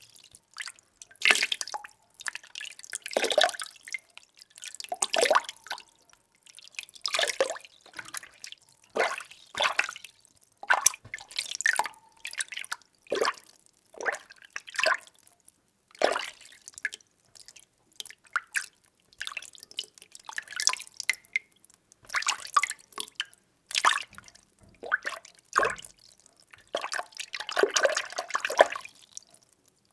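Water being stirred by hand or with a utensil: short sloshing splashes and drips that come and go about once a second, with a longer swirl of splashes near the end.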